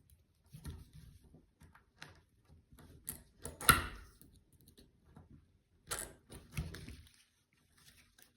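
Scattered light clicks and taps of small parts being handled, with one sharper click a little under four seconds in and another about six seconds in.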